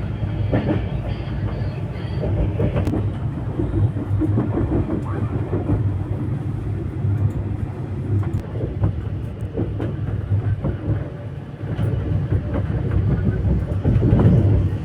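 Train running on rails: a steady low rumble with scattered clicks and knocks from the wheels and carriage.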